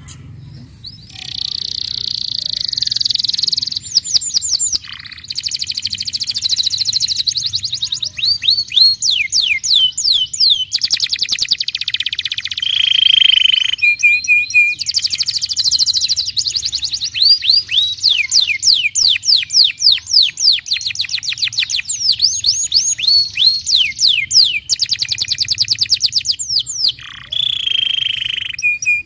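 Domestic canary singing a long, loud song that starts about a second in. It is made of fast trills and runs of repeated sweeping notes, broken by a few short pauses.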